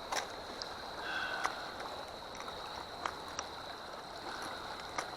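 River water running steadily, with a few light clicks of lures being handled in a tackle box. A faint, steady high whine runs underneath.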